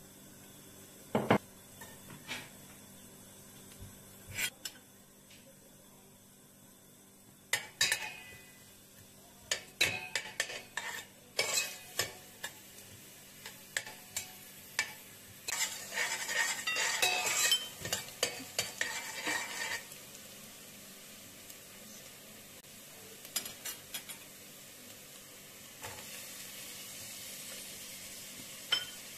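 Diced onion frying in oil in a stainless steel pot, sizzling, with a spoon clinking and scraping against the pot as it is stirred. The sizzle gets loud for a few seconds around the middle.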